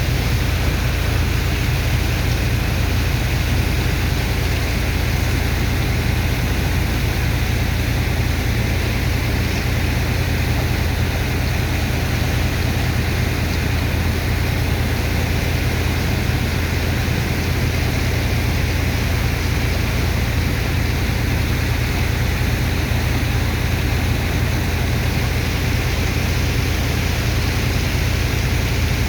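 Sand dredger's engine and water pump running steadily, with a constant rush of water and sand slurry over a heavy low drone.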